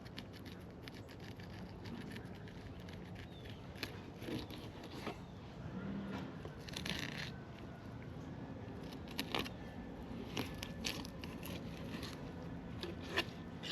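Knife cutting up lane snapper: faint scraping and crunching cuts with scattered clicks, over a low steady hum.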